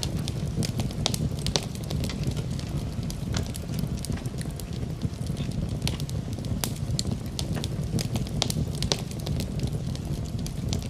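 Fire in a fireplace crackling, with many irregular sharp pops over a steady low rumble of the flames.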